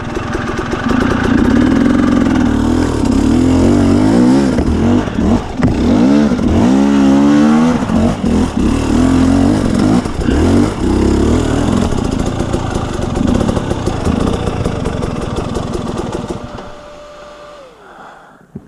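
2017 KTM 250 EXC two-stroke dirt bike engine being ridden, revving up and down with the throttle so its pitch rises and falls repeatedly. About sixteen seconds in it drops away to a much quieter sound, and a single steady tone slides down near the end.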